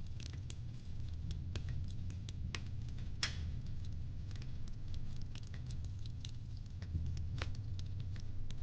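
Fireplace crackling: irregular small pops and snaps over a steady low rumble, with one louder crack about three seconds in.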